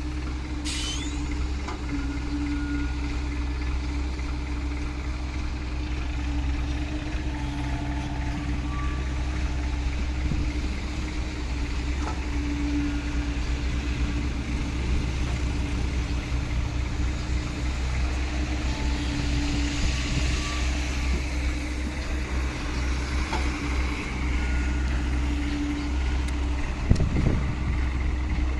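Large Hino dump truck's diesel engine running steadily, with a short knock near the end.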